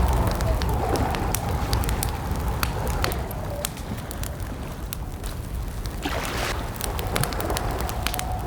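Campfire crackling, with irregular sharp pops throughout, over a low rumble. A faint wavering high tone fades out about three and a half seconds in and comes back near seven seconds.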